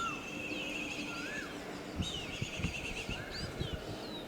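Several birds calling: repeated short rising whistles and rapid trilled chirps. A few low knocks sound in the second half.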